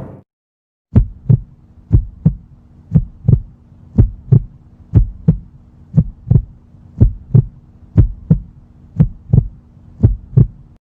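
Heartbeat sound effect: a slow, steady 'lub-dub' of paired low thumps, about one beat a second, repeated ten times over a faint steady hum.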